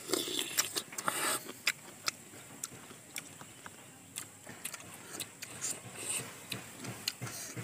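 Star fruit being bitten and chewed close to the microphone: a run of irregular crisp crunching clicks, busiest in the first second and a half.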